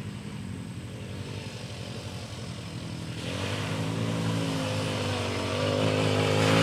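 Four-wheeler (ATV) engine running steadily, its pitch rising a little and growing louder from about halfway in.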